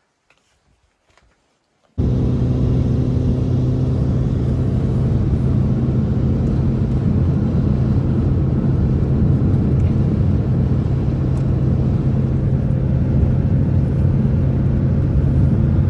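A motor running steadily with a low hum. It starts abruptly about two seconds in and cuts off suddenly at the end.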